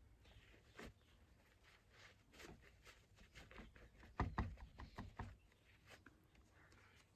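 Faint rustling and light taps of small bits of coconut coir being picked and brushed off a wooden planter with a tissue, with a short run of quicker taps about four seconds in.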